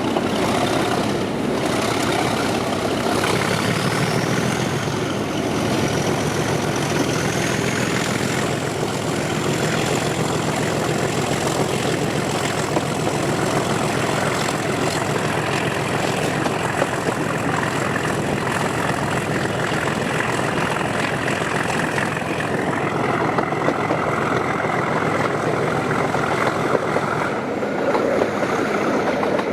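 Class 37 diesel locomotive's English Electric 12CSVT engine working under power, its turbocharger whistle rising over a few seconds a few seconds in, then held high and steady.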